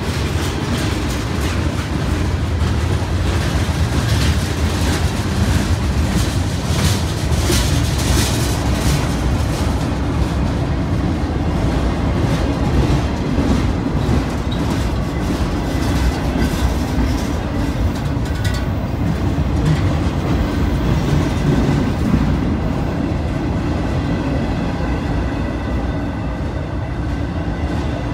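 Freight train's tank cars and boxcars rolling past at close range: a steady rumble of steel wheels on the rails, with a spell of sharp clicking a few seconds in.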